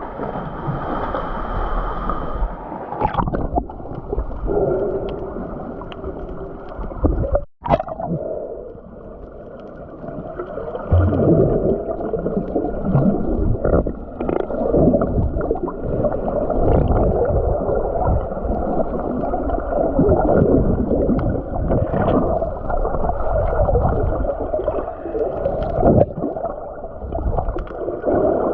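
Muffled churning and gurgling of water, as heard by a camera underwater, with irregular surges and small ticks. It cuts out for a moment about seven and a half seconds in.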